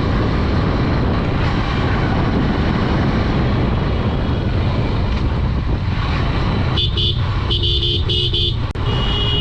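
Steady wind rush and engine noise of a Honda Dream 110 motorcycle riding along, with a vehicle horn giving a series of short beeps in the last few seconds.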